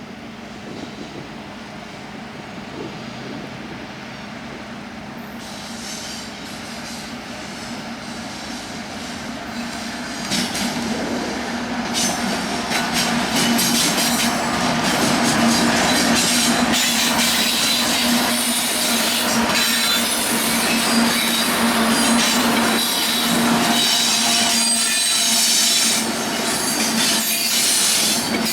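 Union Pacific freight train approaching and passing close by. It grows steadily louder over about the first twelve seconds, then runs on loud with wheels clicking over the rail joints and squealing.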